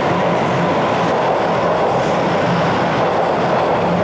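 TTC Line 1 subway train pulling out of the station: a steady, loud din of wheels on the rails and traction motors.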